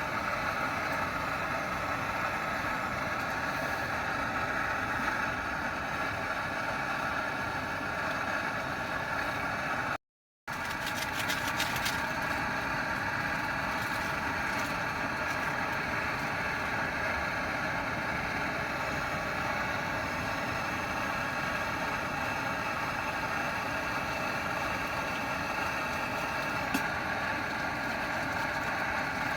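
An engine running steadily at idle, with a brief cut to silence about ten seconds in.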